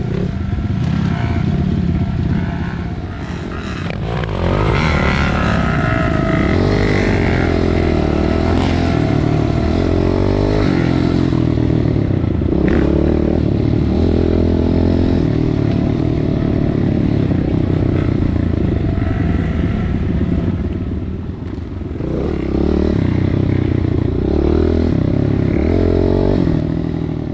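Dirt bike engine running hard, its pitch rising and falling repeatedly with the throttle. It eases off briefly twice, about three seconds in and again past the twenty-second mark.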